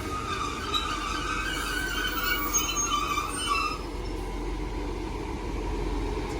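Class 158 and class 156 diesel multiple units at the platform. A high metallic squeal of wheels or brakes dies away about four seconds in, over the steady low rumble of the train.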